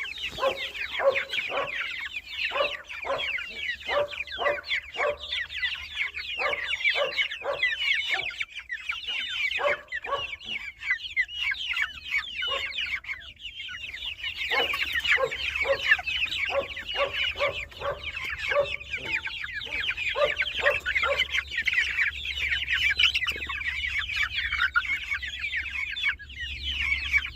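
Aseel chickens clucking in runs of short calls, a few a second, with a pause about halfway through. Dense high-pitched chirping goes on behind them throughout.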